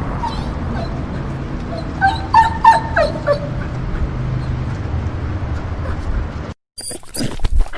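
Dog whimpering: a few short, high, falling whines about two seconds in, over a steady low rumble. Near the end the sound cuts out briefly and a new clip starts with quick breathy strokes.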